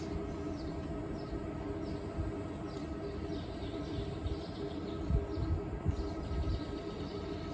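Small birds chirping repeatedly over a steady mechanical hum, with a few dull thumps a little past the middle.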